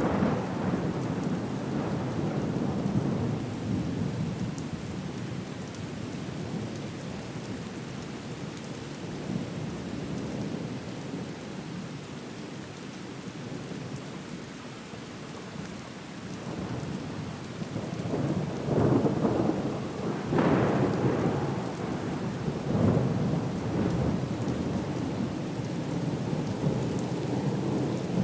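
Steady rain with rumbling thunder. It eases in the middle, then swells again in the second half, with several louder peaks of thunder about two-thirds of the way in.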